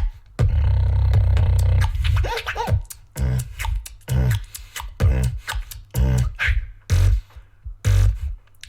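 Beatboxing: a long held deep vocal bass tone, a brief warbling pitch glide, then a steady beat of deep kick sounds and sharp snare-like clicks.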